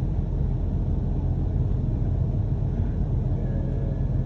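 London double-decker bus on the move: a steady low rumble of engine and road noise.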